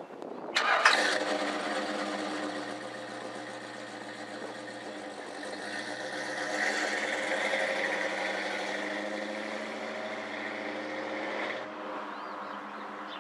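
1967 Chevrolet Camaro's engine starting about half a second in and then running steadily. It drops off near the end.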